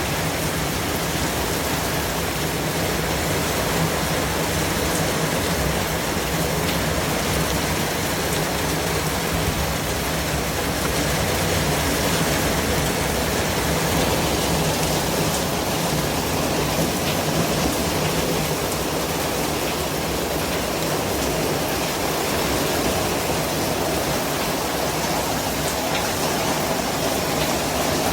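Steady white-noise track: an even, unchanging hiss across all pitches, with a few faint ticks in it.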